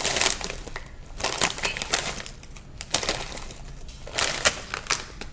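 Close-up crunching of crunchy chips being chewed, in several bursts of crackly crunches with short pauses between.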